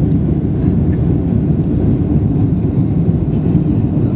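Air Algérie airliner's engines and airflow: a steady low rumble.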